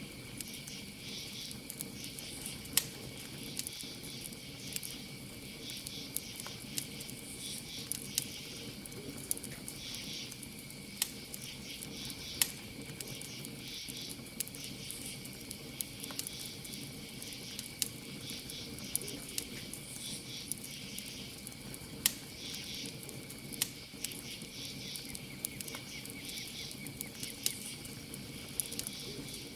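Campfire crackling with irregular sharp pops, a few of them much louder, over a steady chorus of crickets chirping.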